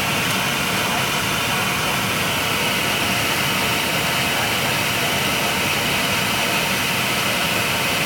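Steady cabin noise inside a jet airliner, with the engines and air system running as a constant rush that does not change.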